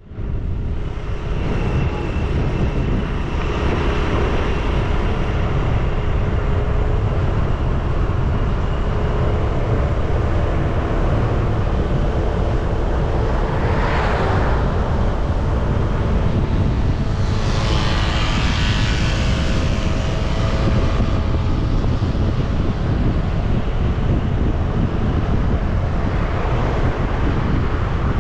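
Motorcycle riding along a road: steady engine and road noise under a heavy low rumble. Twice, about halfway through and again a few seconds later, a louder hiss swells and fades, like other vehicles passing close by.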